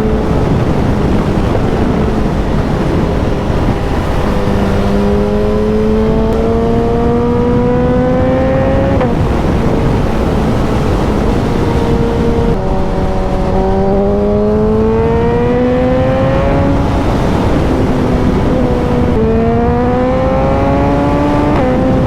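Suzuki motorcycle engine accelerating hard through the gears: its pitch climbs in each gear and drops sharply at each of several upshifts, under heavy wind rush.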